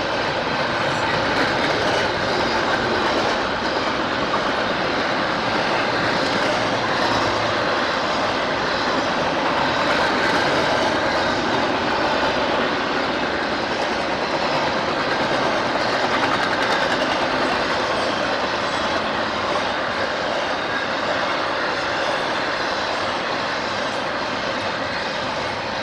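Train rolling past on the rails: a steady, unbroken noise of wheels on track that holds at one level without changing.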